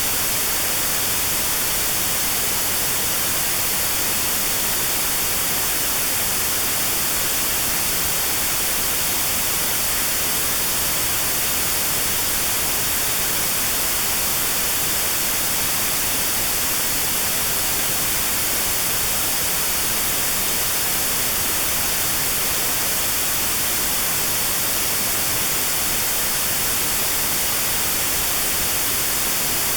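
Steady white noise with a narrow band around 4 kHz cut out (notch-filtered white noise for tinnitus sound therapy), an even hiss with no change.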